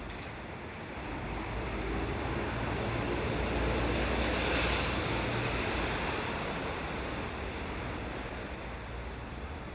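A vehicle passing by: a broad rumble and hiss that swells over the first few seconds, peaks about halfway, then fades away.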